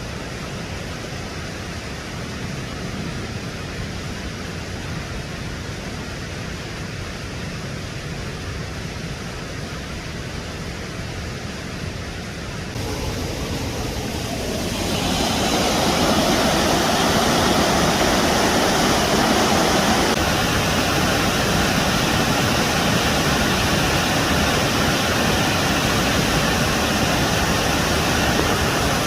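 Waterfall rushing in a steady roar of falling water, turning louder and fuller about halfway through.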